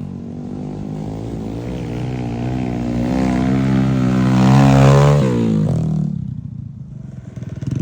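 Motorbike engine working under throttle on an off-road trail, its pitch wavering and climbing to a peak about five seconds in, then dropping away sharply as the throttle is let off. The engine picks up again near the end.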